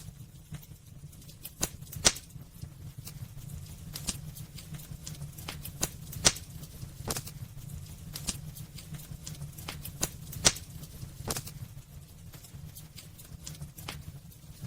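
Wood fire burning in a fireplace, crackling with irregular sharp pops, a few of them much louder, over a steady low rumble.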